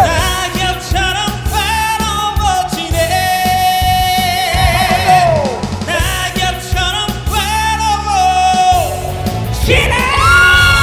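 A singer performs a trot song over band accompaniment, holding long notes with vibrato, and climbs to a higher held note near the end.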